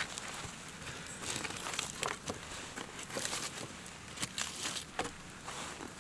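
Irregular crunching and crinkling noises: a dense, uneven run of sharp clicks and crackles over a low steady rumble.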